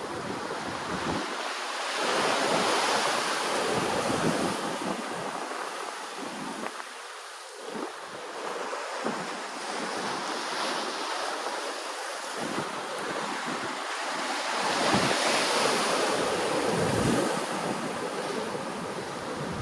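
Ocean waves washing ashore, swelling louder about two seconds in and again near fifteen seconds in. Wind buffets the microphone, making uneven low rumbles underneath.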